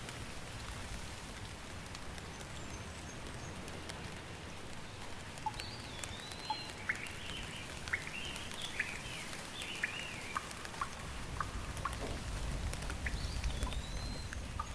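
Steady rain falling, with individual drops ticking and pattering. Birds call through it: a whistle that rises and then holds, twice, and a run of short chirps in the middle.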